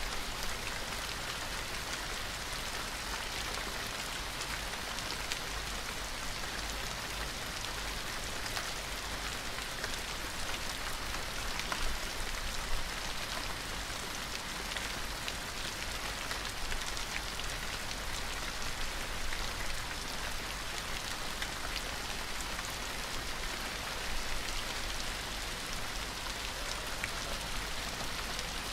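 Steady rain falling on a surface, an even hiss sprinkled with the patter of individual drops.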